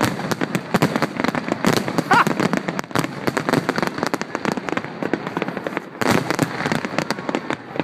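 Fireworks going off at close range: a dense, continuous crackle of many rapid bangs and pops, with a louder cluster of bursts about six seconds in.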